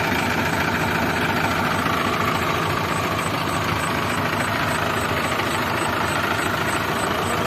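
Heavy diesel engine running steadily at a constant speed, its firing beat even throughout.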